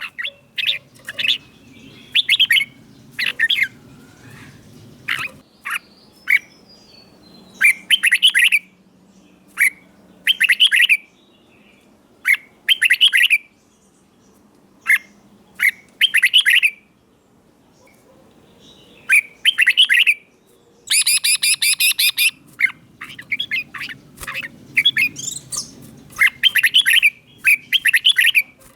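Red-whiskered bulbul singing: short, bright whistled phrases repeated every second or two, some climbing very high, with a few pauses of a second or more between them.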